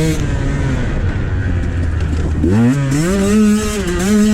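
Dirt bike engine running at low revs off the throttle, then revved up sharply about two and a half seconds in and held at higher revs.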